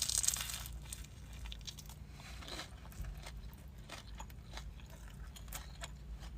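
Close-miked chewing and biting of sushi, with small crunchy clicks and crackles; the densest crunching comes right at the start.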